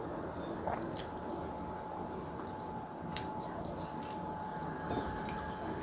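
A person chewing a mouthful of food close to a clip-on microphone, with soft wet mouth sounds and a few sharp lip clicks. A faint steady hum runs underneath.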